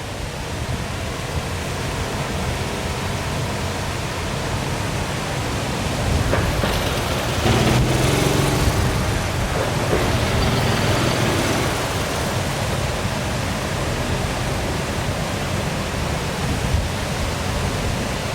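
Waterfall water pouring in a steady rush, swelling louder for several seconds in the middle.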